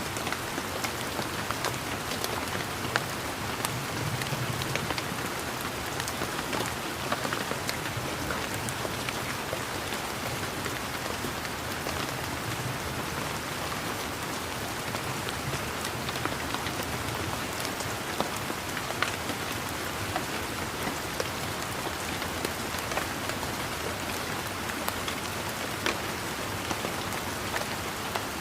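Steady rain pattering on garden leaves and surfaces, with many separate drops ticking through the hiss.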